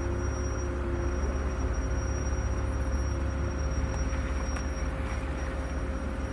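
Off-road vehicle driving slowly on a rough dirt track: a steady low engine rumble with a thin, steady high tone over it.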